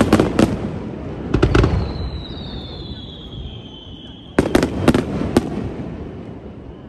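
Aerial fireworks shells bursting in three clusters of quick sharp bangs: at the start, about a second and a half in, and again about four and a half seconds in. Each cluster trails off in a rolling rumble.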